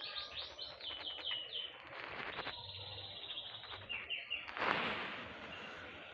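Small songbirds chirping: a quick run of short, falling high notes in the first second and a half, then scattered chirps over a steady hiss. A brief, loud rustling burst comes about four and a half seconds in.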